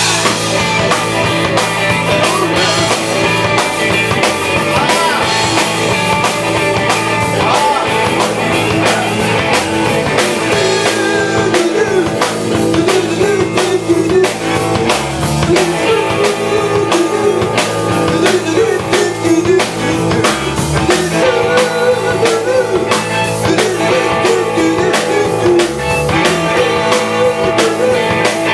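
A live rock band playing, with guitar over a drum kit.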